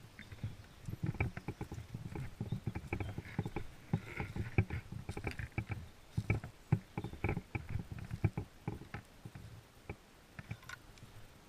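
Footsteps and gear rattle of a player moving on foot: a dense, irregular run of dull thuds and sharp clicks.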